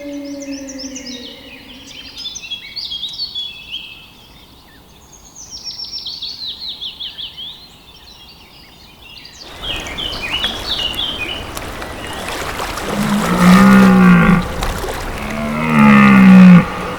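Songbirds singing in quick chirping phrases. Then, over a steady rushing noise, a large hoofed mammal gives two deep, drawn-out, cattle-like lowing calls near the end, the loudest sounds in the clip.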